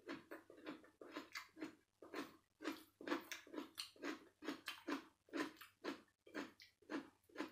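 A person chewing food in steady, rhythmic chews, about two to three a second.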